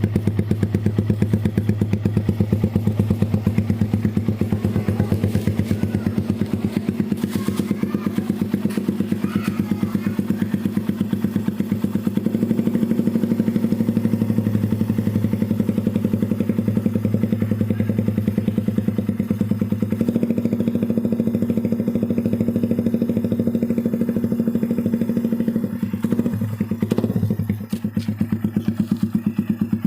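Suzuki Satria FU's 150 cc single-cylinder four-stroke engine idling through an aftermarket RCB GP16 racing exhaust, a steady rapid pulsing at an even pitch. The exhaust note dips briefly near the end, then picks up again.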